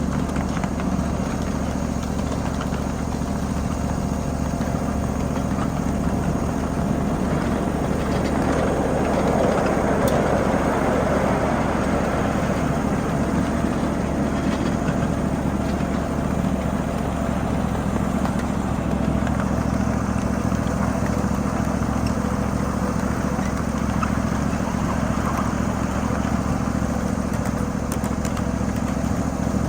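A 7.5-inch-gauge ride-on miniature train running with a freight consist, a steady engine drone with rail and wheel noise, swelling louder for a few seconds about a third of the way in.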